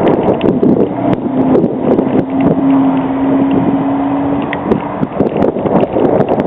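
Busy street traffic, with wind buffeting the microphone. A steady vehicle engine hum runs under it and stops about four and a half seconds in.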